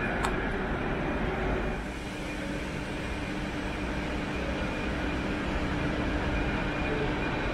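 Rumble of a České dráhy railjet train in the station. About two seconds in it gives way to the steady hum, with a low tone, of a class 680 Pendolino electric unit standing at the platform.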